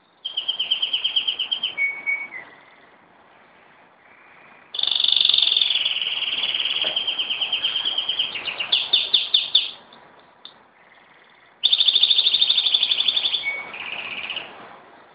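Pet canary singing: three phrases of fast, high trills and rolling notes, the longest in the middle lasting about five seconds, with short pauses between.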